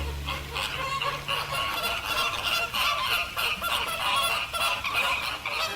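A flock of greater flamingos honking: many short, goose-like calls overlapping one another. The tail of low music fades out about a second and a half in.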